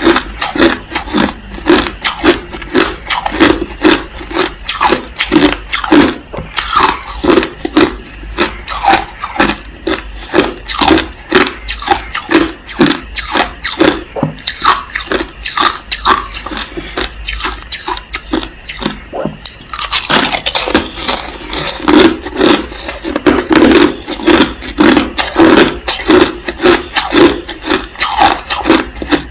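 Crushed ice being chewed close to the microphone: a loud, unbroken run of crunches, a few a second, growing denser and louder about two-thirds of the way in.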